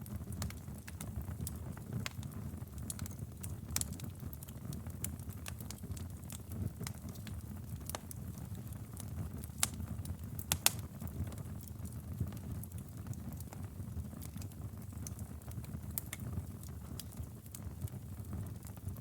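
Wood fire crackling in a fireplace: a steady low rumble of flames with scattered sharp pops and snaps, two louder pops about halfway through.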